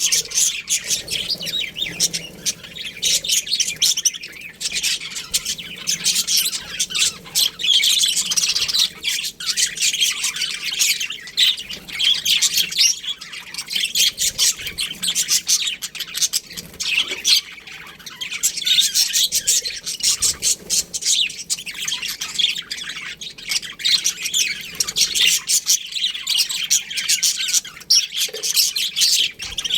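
A colony of budgerigars chirping continuously, many short high calls overlapping.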